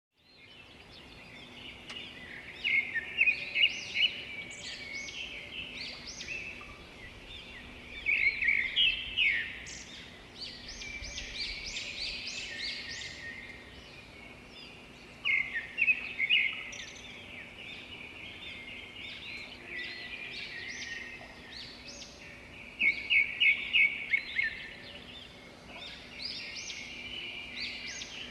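Songbirds singing: a loud phrase of rapid, repeated chirps comes back about every six to eight seconds, with quieter chirping between the phrases. A faint steady hum runs underneath.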